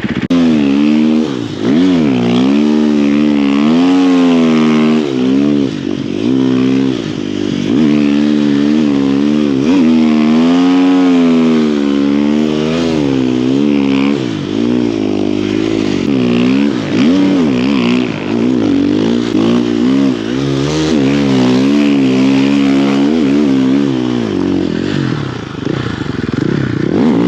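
Snow bike engine (a dirt bike fitted with a track and front ski) revving up and down continuously as it is ridden through deep snow, its pitch rising and falling every second or two.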